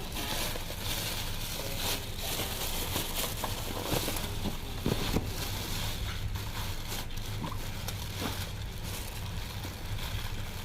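Crunching and crackling of food being eaten, with scattered small clicks over a steady low hum.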